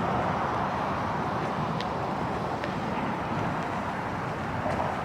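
Steady, even noise of passing road traffic.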